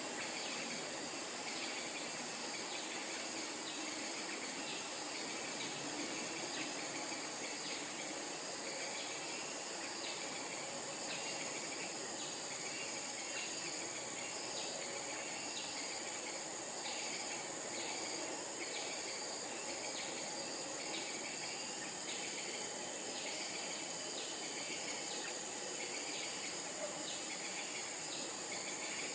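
Steady, high-pitched insect drone, with short chirps repeating about once a second.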